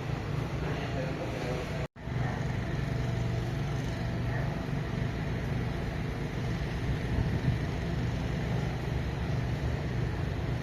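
Steady low hum and rumble of a metro train at a station, cut off abruptly for an instant about two seconds in before it resumes.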